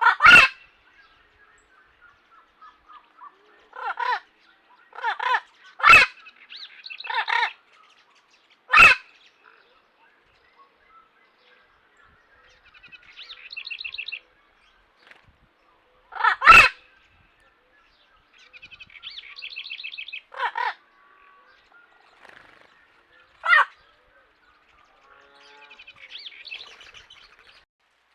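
Several wild birds calling: short, loud, harsh calls at irregular intervals, between quieter, higher chattering trills.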